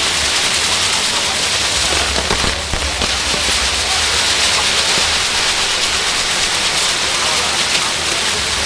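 Ground fireworks burning: a loud, steady hiss of spraying fountains with a fine crackle running through it.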